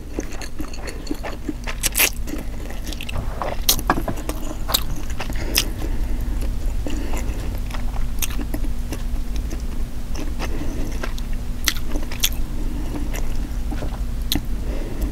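Close-miked mouth sounds of someone eating black bean noodles: chewing and biting with many short, irregular wet clicks and smacks. A steady low hum runs underneath.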